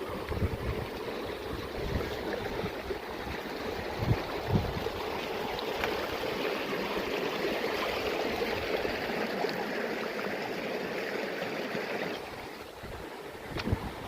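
Mountain stream water rushing steadily, easing off near the end, with wind gusting on the microphone.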